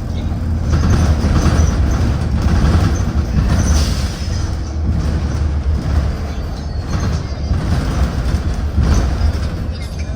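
Engine and road rumble inside a city transit bus, a steady low drone with road noise over it.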